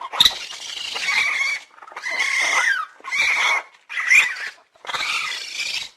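Raccoon calling: a series of five noisy, squealing calls, each between about half a second and a second and a half long, with short gaps between them.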